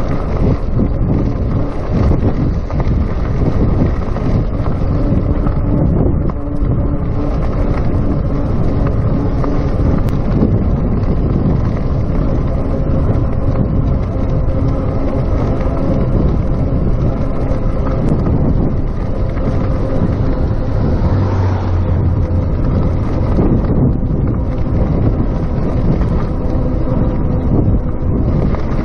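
Wind noise buffeting a chest-mounted GoPro microphone while riding a RadMini electric bicycle, loud and steady. A faint steady hum runs underneath.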